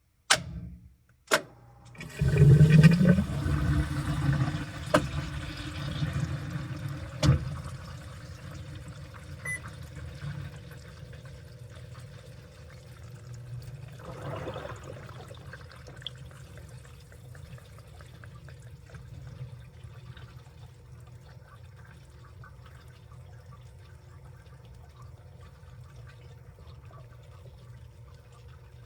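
Washing machine taking in water: two sharp clicks, then water rushes into the drum about two seconds in, loud at first and settling into a steady, quieter flow.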